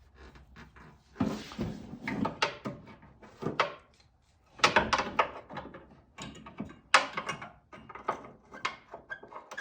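Irregular metal knocks, clinks and scrapes as a camber/caster plate's lower mount is worked up into place against the strut tower and its studs are lined up in the holes.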